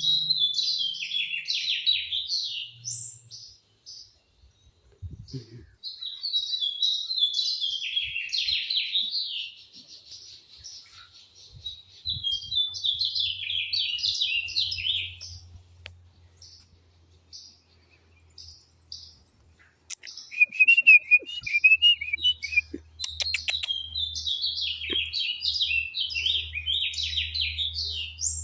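A songbird singing in repeated phrases of rapid chirping notes, each phrase about two to three seconds long, with short pauses between. A second, lower trill comes in about twenty seconds in.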